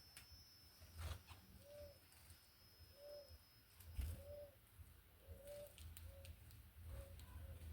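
Faint dove cooing: a series of short, soft coos, about one a second, coming quicker and in pairs near the end. Two soft knocks come about a second in and about four seconds in.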